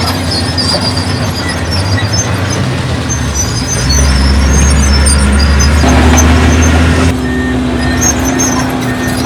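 Heavy diesel construction machinery running steadily, its engine getting louder about four seconds in for some three seconds, with short high metallic squeaks scattered over it.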